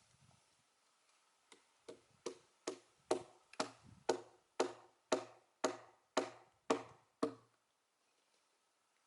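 About a dozen sharp blows in a steady rhythm, roughly two a second, struck into an oak log to drive the split along it; the first few build in loudness, and the blows stop a couple of seconds before the end.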